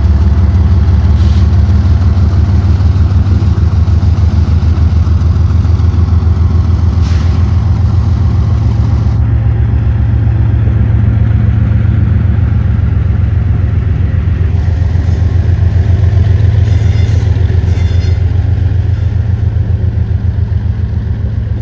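Diesel locomotive engine running close by: a loud, steady low throb with a rapid even pulse, easing off slightly near the end.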